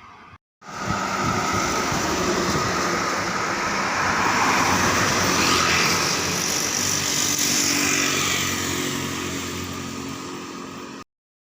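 Truck engine running as the truck passes on the road, swelling to its loudest about midway and then slowly fading, with road and tyre noise.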